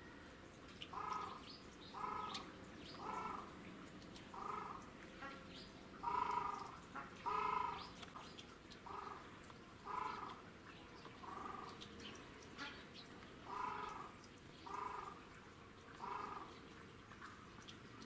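A bird calling over and over: a short call repeated roughly once a second, about a dozen times.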